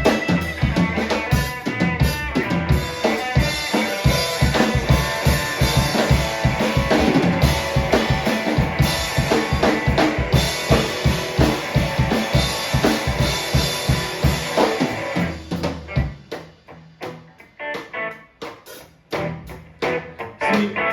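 Rock band playing an original song, with a drum kit keeping a steady beat of kick, snare and rimshots. About fifteen seconds in the fuller sound drops away to a sparser, drum-led part.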